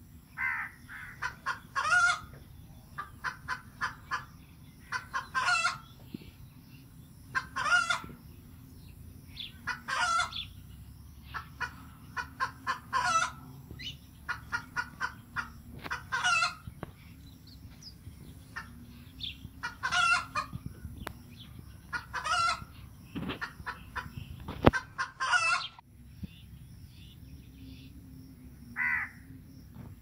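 A bird calling over and over in loud, rhythmic phrases about every two to three seconds, each phrase led by a run of short clicking notes; the calls stop about 26 s in, with one more near the end.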